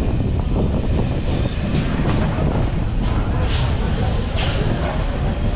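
Train running past close by: a loud, steady rumble of wheels on the rails, with a brief high squeal about three and a half seconds in.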